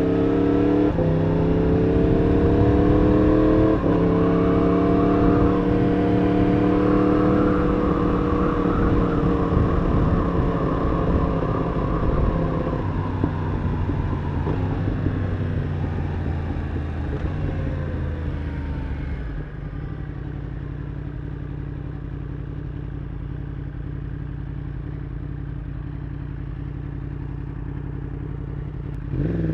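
Yamaha R1 inline-four sport bike engine pulling hard through two quick upshifts in the first few seconds, then holding and slowly rolling off as the revs fall. About two-thirds of the way through it drops to low, steady revs, and right at the end the throttle opens again with a sharp rise in revs. Wind rush is mixed in with the engine.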